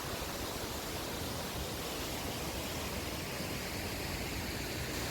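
A 150-foot waterfall pouring into its plunge pool: a steady, even rush of falling water.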